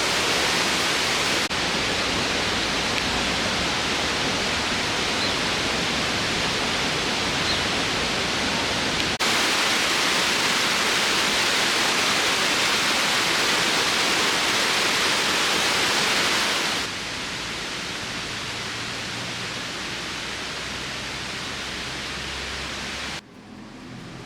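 Steady rushing roar of a waterfall. It changes abruptly in level three times, at about 1.5, 9 and 17 seconds in, and drops to much quieter near the end.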